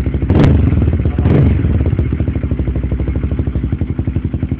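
Honda CBR150's single-cylinder engine through an aftermarket exhaust pipe, idling with two quick throttle blips in the first second and a half, then settling back to a steady pulsing idle.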